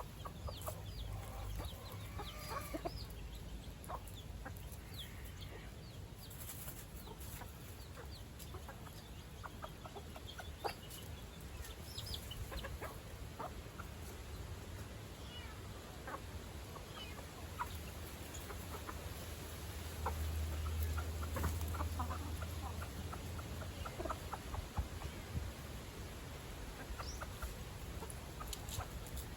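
Chickens clucking faintly off and on, over a low rumble.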